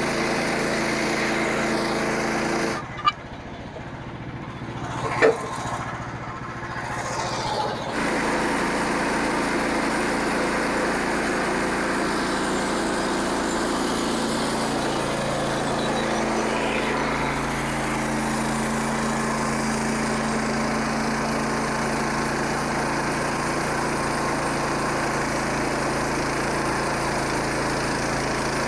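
Small gas engine of a Frontier OS27 portable bandsaw sawmill running steadily. About three seconds in it gives way for several seconds to a quieter stretch with two sharp knocks, then the steady engine sound returns.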